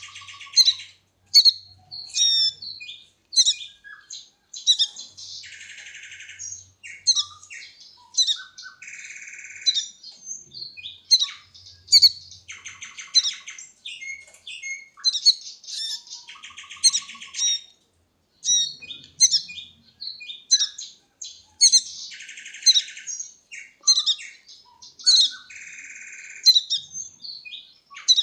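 Baby birds chirping: a steady run of sharp, high chirps, with harsh buzzy calls every few seconds.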